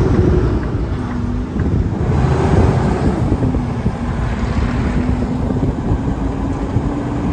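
Semi-truck cab interior while driving: steady low road and engine rumble. The engine's hum steps down and back up in pitch a few times, then climbs slowly.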